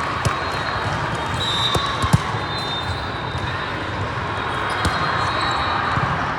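Indoor volleyball tournament hall din: a steady wash of many voices from the surrounding courts, cut by a handful of sharp smacks of volleyballs being hit and bouncing, two close together about two seconds in. Short high-pitched squeaks or whistles come and go in the background.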